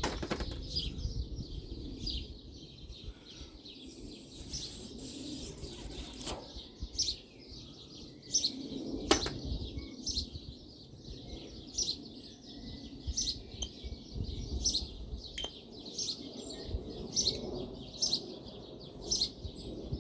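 A small bird chirping over and over at a steady pace, with low handling noise and a few sharp clicks and knocks from work on the bench.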